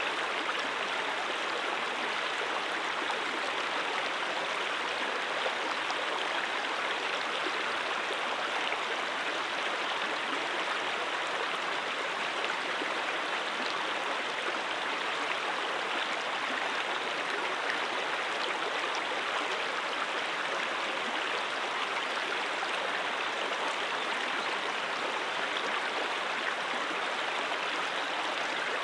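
Mountain stream water flowing and rushing steadily over rocks, an even, unbroken splashing hiss.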